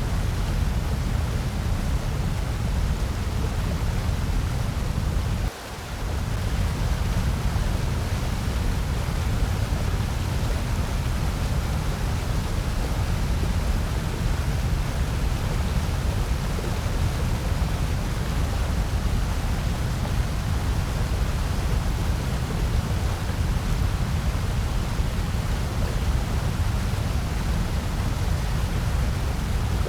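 Steady artificial noise, a featureless hiss heaviest in the bass, with a brief dip in level about five and a half seconds in.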